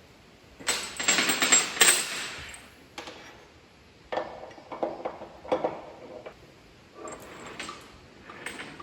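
Metal clattering and clinking of tools and parts in repair work on a large truck's rear tailgate: a dense rattle about a second in, then scattered separate knocks and clinks.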